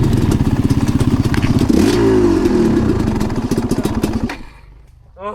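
Off-road dirt bike engine running hard with sharp clattering knocks, the revs dropping about two seconds in, then the engine cuts out suddenly about four seconds in.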